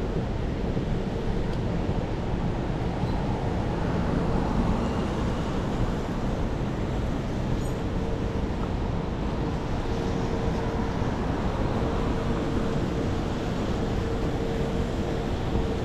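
Steady rumble of a New York subway train running, with a faint whine holding one pitch that comes and goes.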